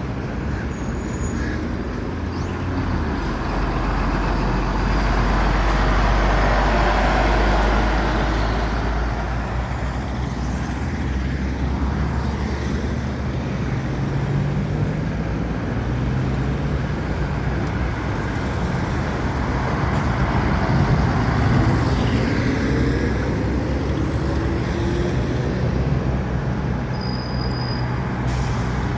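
City street traffic with heavy truck engines running past over steady road noise. It grows louder about five seconds in and again around twenty seconds in, where an engine's pitch rises as it pulls away.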